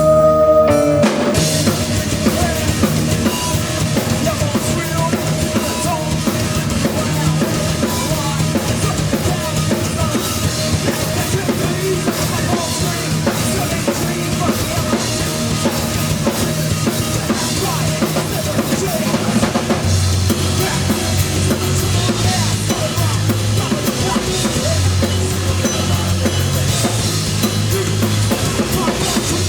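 Heavy rock band playing live, led by dense drum-kit playing with kick and snare, over bass-guitar lines. A held note stops about a second in, just as the full band comes in.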